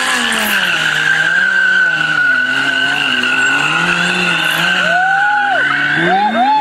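BMW S1000RR inline-four engine held at steady revs that bob up and down under the throttle, while the rear tyre squeals steadily as it slides. Near the end the revs rise sharply in a few quick blips.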